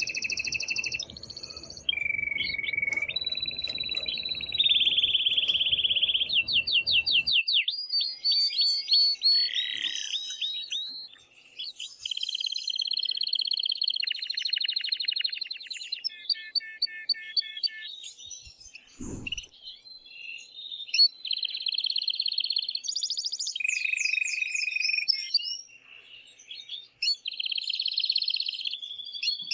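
Male domestic canary singing a loud, continuous song of fast trills and rolls, changing from phrase to phrase: the excited song of a male in breeding condition. A low rumble underlies the first few seconds, and there is one brief low thud about two-thirds of the way in.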